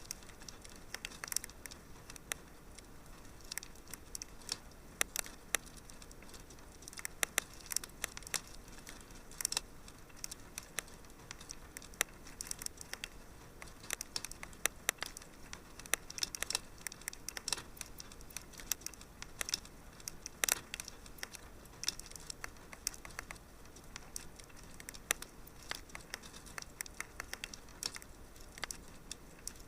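Fireplace fire crackling: irregular sharp pops and snaps, several a second, over a faint steady hiss.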